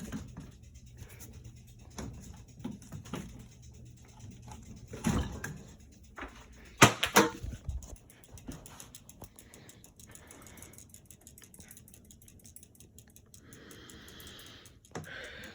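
Hampton Bay Landmark III Plus ceiling fan running with a low motor hum and faint scattered ticking, with a few louder knocks about five and seven seconds in.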